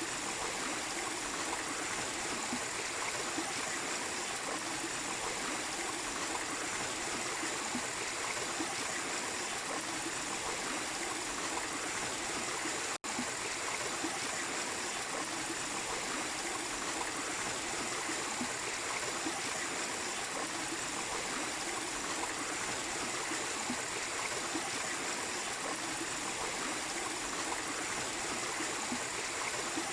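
Small waterfall and stream running steadily, a continuous rush of water. It cuts out for an instant about thirteen seconds in.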